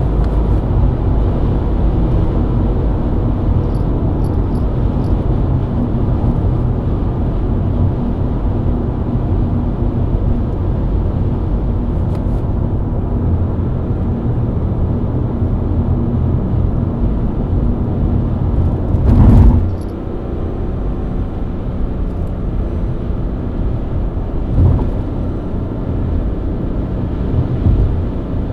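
BMW E90 323i's inline-six engine running at a steady cruise, under a constant low rumble of engine and road noise. About two-thirds of the way through, a brief loud rush of noise swells and fades, and two smaller bumps follow near the end.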